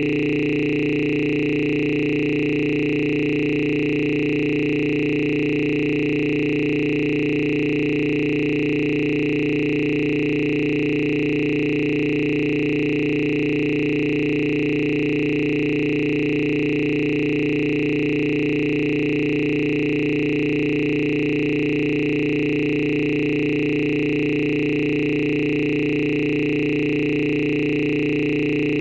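A steady electronic tone: several pitches held together at an even level, unchanging throughout, with no breaks or beat.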